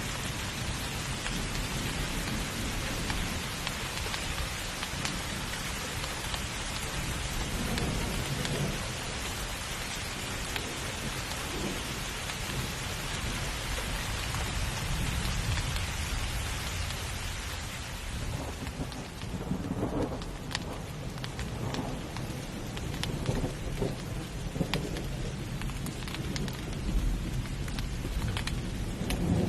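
Heavy rain pouring steadily, with deep rolling thunder. About two-thirds of the way through the rain hiss thins and single drops are heard tapping. The thunder rumble swells again near the end.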